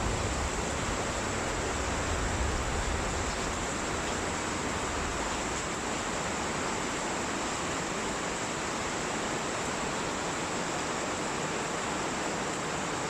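Steady rushing noise of a medicane storm, with low rumbling gusts in the first three seconds.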